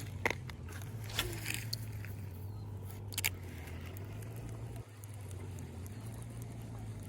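A steady low mechanical hum with a few sharp clicks and ticks in the first few seconds.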